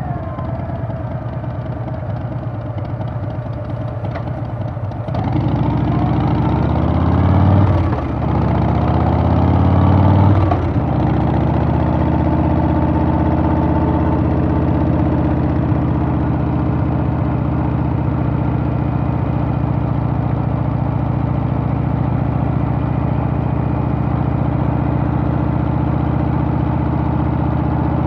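Harley-Davidson Softail's Milwaukee-Eight V-twin engine on the move. It runs steadily at low revs, then about five seconds in it accelerates, rising in pitch with a short drop near eight seconds as it shifts up. It rises again until about ten and a half seconds, then settles into a steady cruise.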